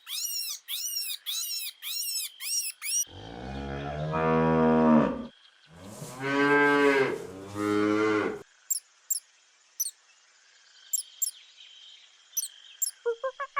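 A cow mooing: one long moo, then after a short pause two more that almost run together. Before the moos, a run of high, rapid chirps, about three a second, stops about three seconds in. Near the end a run of quick honking calls begins.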